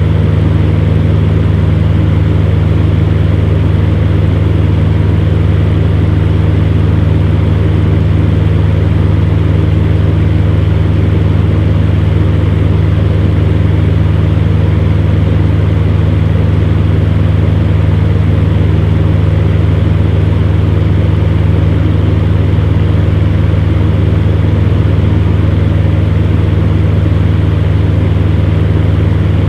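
Electric fan heater running steadily: a low, unchanging hum with an even rush of blown air over it.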